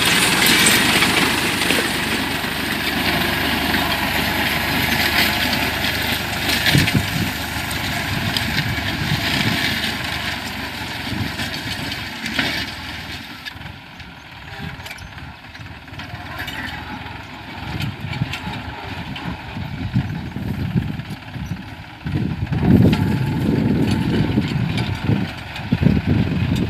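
New Holland 49-horsepower, 2700 cc tractor engine running while it pulls a six-disc plough. The engine fades for several seconds in the middle, then grows louder again with an uneven low rumble near the end.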